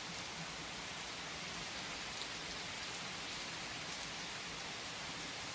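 Steady rain falling: an even hiss with no pauses and a few faint scattered drop ticks.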